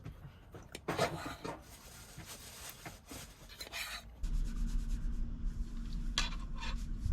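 Light scraping and clicking of cutlery on a plate. About four seconds in, a steady low rumble with a faint hum takes over.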